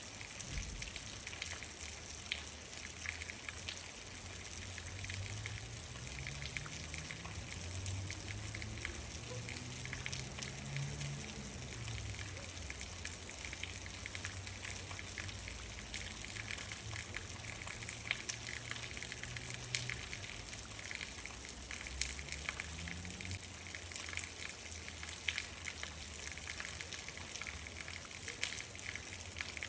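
Steady rain with many separate drops pattering and clicking. Through the middle a faint low drone rises and falls in pitch, then fades out.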